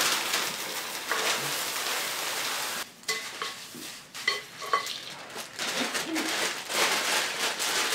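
Dry cereal being poured from its bag into a bowl: a steady rustling patter of pieces hitting the bowl, breaking off about three seconds in, then resuming more unevenly with small clicks.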